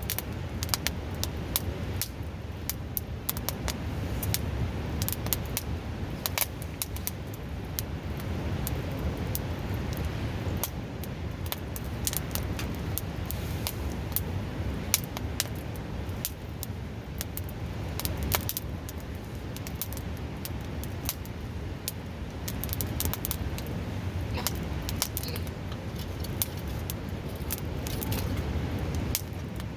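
Wood fire crackling and popping with irregular sharp snaps, over the steady rush of a nearby river.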